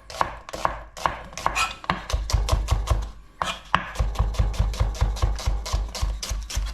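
Kitchen knife slicing onions into thin slices and knocking on a chopping board in a steady rhythm, a few slow cuts at first, then about five a second from roughly two seconds in.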